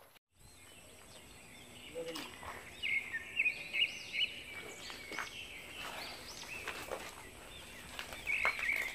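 Outdoor background with birds chirping in short bursts, busiest about three to four seconds in and again near the end, with a few scattered sharp clicks.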